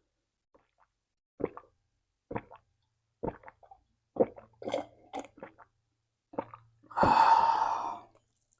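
A person chewing and eating with short, wet mouth sounds about once a second. Near the end comes a louder, noisier sound lasting about a second.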